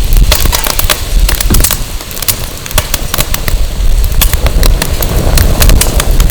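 Burning firewood crackling and popping with many sharp snaps, over a low rumble of wind buffeting the microphone that eases briefly midway.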